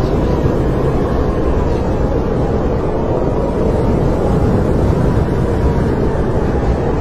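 Snowstorm wind blowing steadily, a loud rushing noise with a faint whistling tone that wavers slowly in pitch.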